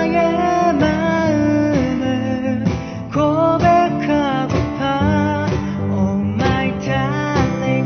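Acoustic guitar strumming chords under a singing voice carrying the melody.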